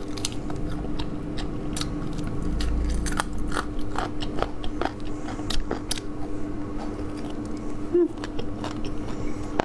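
Close-up biting and chewing of fried bone-in chicken legs, with many short irregular crunches and clicks. A faint steady hum runs underneath.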